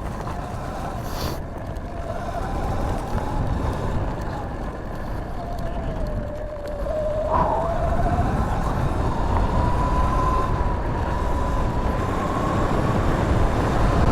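Sur-Ron electric dirt bike's motor whining as it is ridden, one thin tone that falls and rises with speed, climbing and holding higher over the second half, over a steady low rumble.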